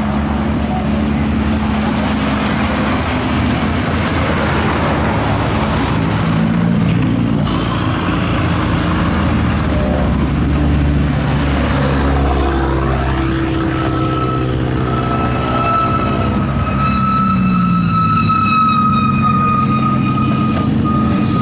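Motor vehicle engines running: a steady low engine drone throughout, with engine notes gliding up and down in the middle and a sustained high whine in the second half.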